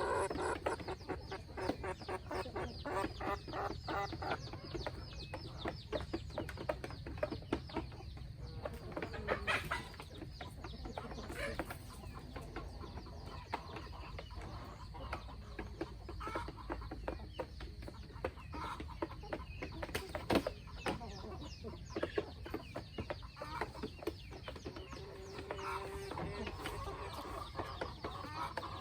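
Chickens clucking, over many small quick clicks throughout, with short pitched calls now and then.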